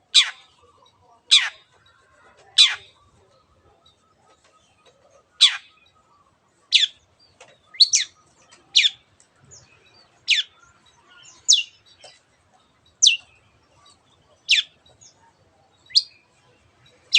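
Long-tailed shrike (cendet) giving a series of sharp, downward-sweeping 'teot' calls, a dozen or so, spaced about a second or a second and a half apart.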